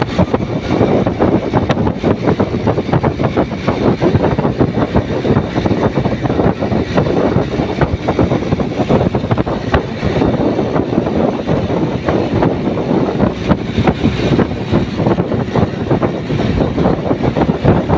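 Motorcycle running steadily at speed, its engine and road noise mixed with heavy wind buffeting on the microphone.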